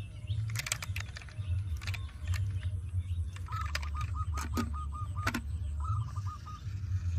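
Sharp clicks of small hard objects, with a bird's rapid chattering call in the middle and again briefly near the end, over a steady low rumble.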